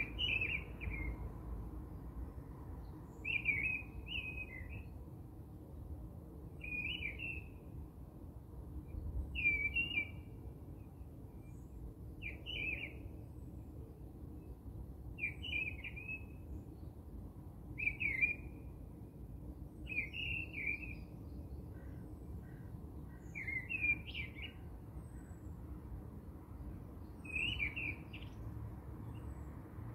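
A bird calling, a short chirping phrase repeated about every three seconds, over a low steady background rumble.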